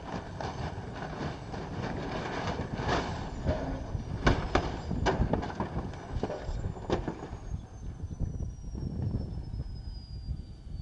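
Helicopter in ground resonance: a heavy, rough rumble of the rotor and shaking airframe, with a few sharp bangs between about four and seven seconds in. A high whine falls steadily in pitch through the second half.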